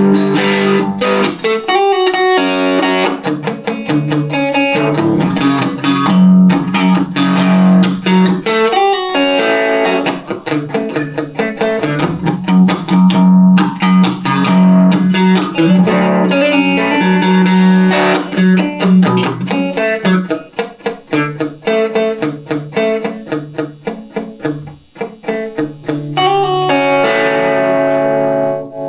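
Electric guitar, a Van Zandt Telecaster played through a Roland JC-120 amp, in an instrumental passage of quick picked notes over a repeating bass line, settling into a held, ringing chord near the end.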